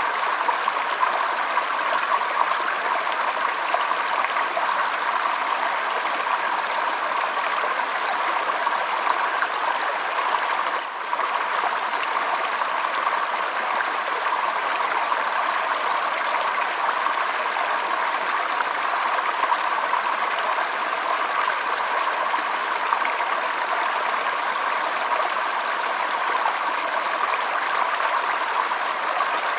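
Water flowing steadily in a stream, a continuous even rush and trickle, dipping briefly once about eleven seconds in.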